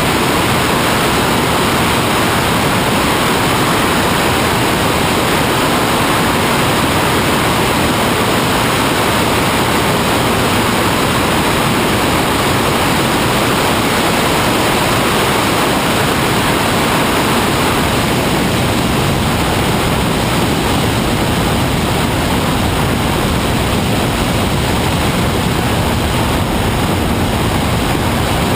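Steady, loud rushing noise with no distinct tone or rhythm, unchanging throughout.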